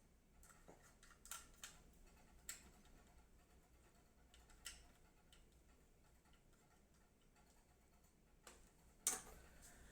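Faint, scattered light clicks of a hand screwdriver and small screws being worked into an SSD mounting bracket, several ticks in the first few seconds, then a long quiet stretch and two more clicks near the end.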